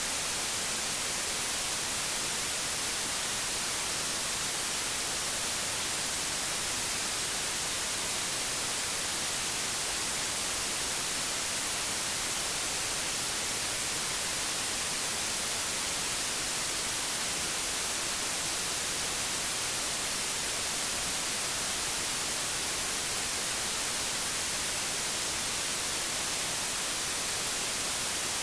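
Old analogue television static: a steady, even hiss of white noise, brightest in the treble, with no change.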